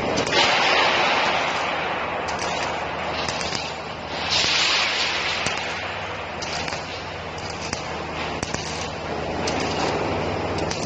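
Automatic rebar cage welding machine running: a steady low hum under hissing, crackling welding, loudest about half a second in and again about four seconds in, with short sharp clicks scattered throughout.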